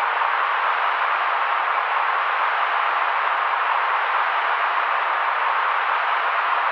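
Steady white noise used as a baby sleep aid: an even, unchanging mid-pitched hiss with little deep rumble or sharp top.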